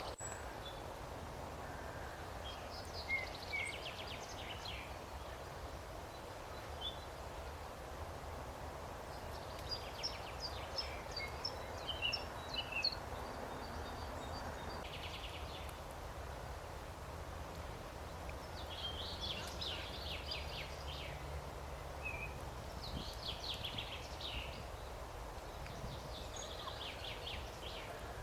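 Songbirds singing in short trilling phrases that come every few seconds, with a few single chirps between them, over a steady outdoor background hiss.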